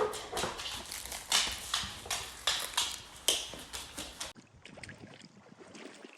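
Golden retriever's claws clicking and tapping irregularly on a hard floor as the dog walks over. About four seconds in the sound cuts off to a faint hiss.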